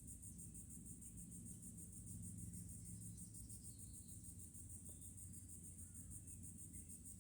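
Faint chorus of insects in the woods: a steady, high, evenly pulsing trill.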